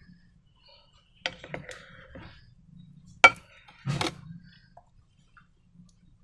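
Slime-making handling sounds: a few sharp clicks and knocks of containers and tools. The loudest is a single sharp click about three seconds in, followed by a short rustling knock.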